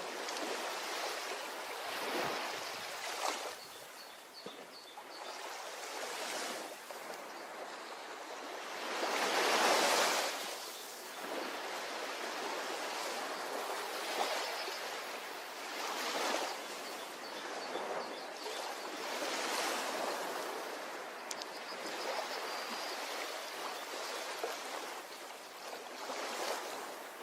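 Ocean surf washing onto a beach: a steady hiss that swells and falls back with each wave every few seconds, the biggest swell about ten seconds in.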